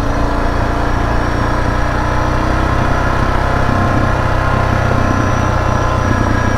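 Suzuki DR650's single-cylinder four-stroke engine running steadily at an even pitch while the motorcycle is ridden.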